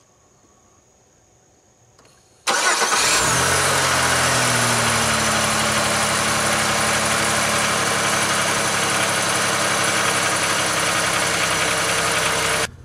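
A 2003 Pontiac Grand Am GT's 3.4-litre V6 starts suddenly about two and a half seconds in, after near silence, on a freshly replaced starter. It settles into a steady idle, its pitch dropping a little over the first couple of seconds.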